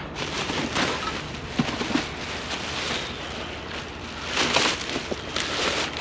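Rummaging through a curbside junk pile: items rustling, scraping and clattering as they are handled and moved, with a louder burst of rustling about four and a half seconds in.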